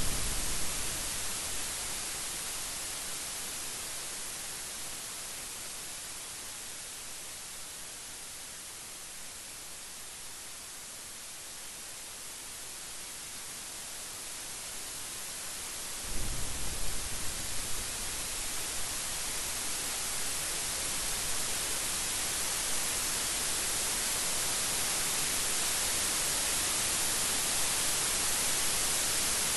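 Steady heavy rain hiss with thunder. A rumble dies away at the start, and about 16 s in a sudden crack of thunder breaks in and rolls on under the rain.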